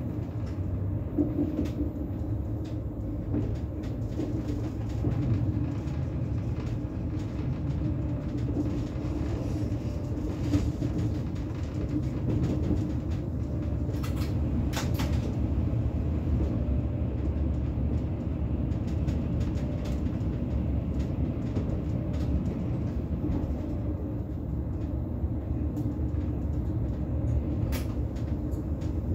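Bombardier Twindexx Swiss Express double-decker electric train (SBB RABe 502) running along the line, heard from inside the driver's cab: a steady low rumble with a held hum. A few sharp clicks come through, most of them about halfway.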